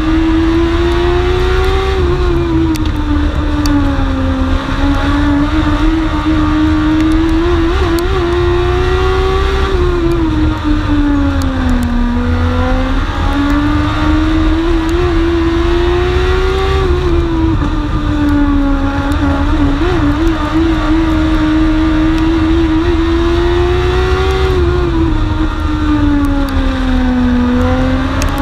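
Dwarf race car's engine heard from a camera mounted on the car, running hard under a low rumble of road and wind noise. Its pitch climbs and falls in a smooth, even cycle about every seven to eight seconds, rising on each straight and dropping through each turn as the car laps the oval.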